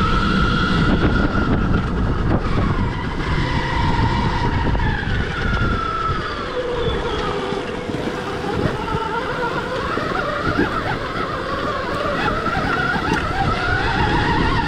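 Stark Varg electric dirt bike's motor whining, its pitch rising and falling over and over as the throttle is opened and closed, over a steady low rumble from the ride.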